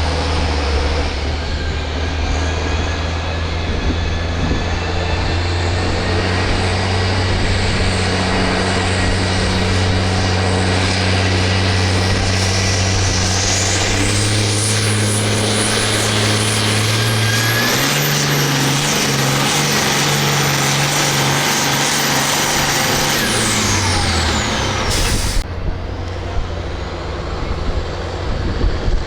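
Farm stock tractor engine running hard under load as it pulls the sled. The engine pitch steps up twice and a high whine climbs steadily over the first half. About three-quarters of the way through, the engine winds down and the whine falls away, followed by a sudden sharp break.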